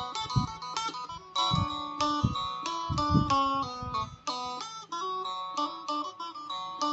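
Phin, the Isan plucked lute, played solo: a quick plucked melody over a steady low drone, on an instrument newly fitted with frets and being tried out.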